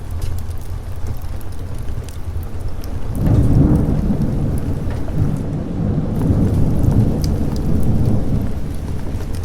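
Steady rain with thunder. A deep rumble of thunder swells about three seconds in and keeps rolling.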